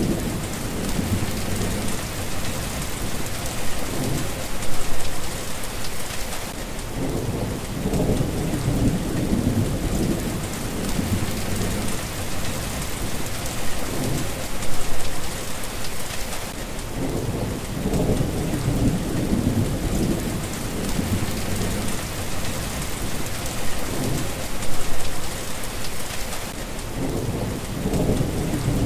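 Steady rain falling, with low rolls of thunder that swell and fade several times, loudest about five, fifteen and twenty-five seconds in.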